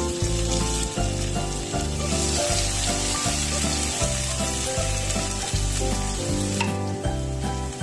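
Diced tomatoes sizzling in hot oil in a nonstick wok as they are stirred around, with a steady background music track underneath.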